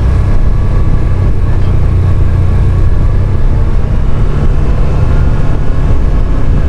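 CFMoto CForce 850 XC quad bike's V-twin engine running steadily under way, with a loud, even low rumble of engine and road noise.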